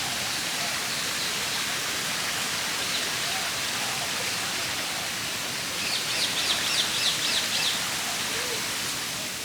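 Steady rush of falling water, with faint bird calls over it and a quick chirping trill of about eight notes about six seconds in.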